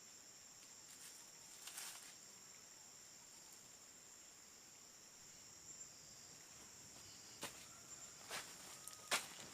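Faint steady high chirring of insects. There is a brief rustle about two seconds in, and several crunching footsteps in leaf litter over the last two seconds.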